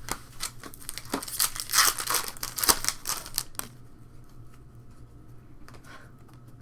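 A foil trading-card pack wrapper being torn open and crinkled, a dense crackling rip for about the first three and a half seconds. After that it quietens to a few light ticks.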